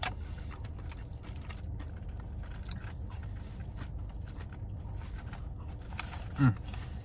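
Chewing a chicken nugget with barbecue sauce, soft mouth sounds with scattered small clicks, over a steady low rumble. Near the end there is a short hummed 'mm'.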